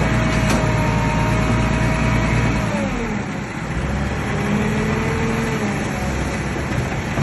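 Bulldozer's diesel engine running steadily under load. About two and a half seconds in, its note falls away and eases off, then settles into a lower, steadier run.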